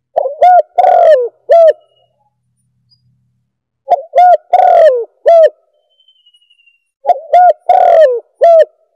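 Spotted dove (tekukur) cooing from a bird-caller recording. Three phrases come about three seconds apart, each a few short coos with a longer coo in the middle that falls in pitch.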